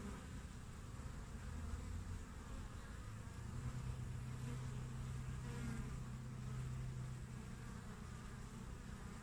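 Honeybees (Apis mellifera) buzzing at a hive entrance. The hum is continuous, with a steadier, louder drone from about three and a half to seven seconds in.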